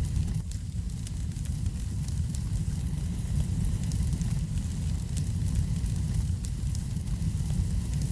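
Wood fire burning: frequent small sharp crackles and pops over a steady low rumble of flame.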